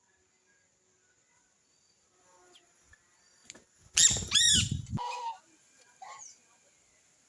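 Wild birds at a feeding tray: about four seconds in, a loud second-long burst of wingbeats with a rapid run of harsh calls, then a few short calls.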